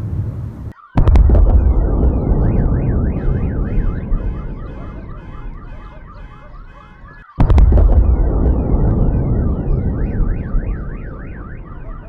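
Two sudden, loud booms about six and a half seconds apart, each followed by a long low rumble that dies away: a recording of a skyquake, a thunder-like boom from the sky. Car alarms start warbling up and down just after the first boom and keep going.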